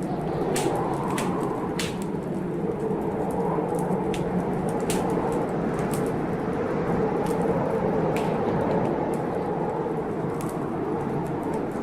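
Wood fire crackling in a fireplace, with irregular sharp pops, over a steady rushing noise of a storm.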